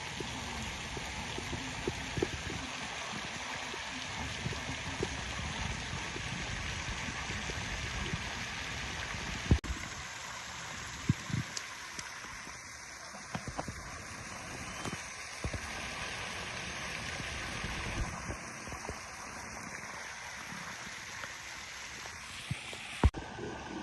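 Steady rush of flowing water, like a stream or river, with a few scattered knocks. The water sound drops a little in level about ten seconds in.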